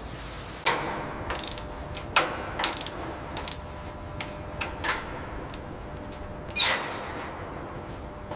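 An irregular series of sharp metallic clicks and knocks, about a dozen, with the loudest near the start and about two-thirds of the way through, over a steady low background.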